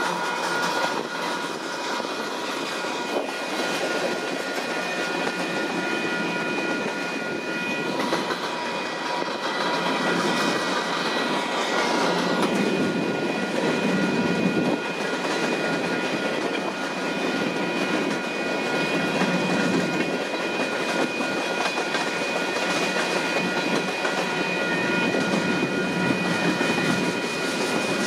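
Freight cars (tank cars and covered hoppers) of a Union Pacific train rolling steadily past: the wheels rumble and clack over the rail, with a few thin, steady high-pitched ringing tones above the rumble.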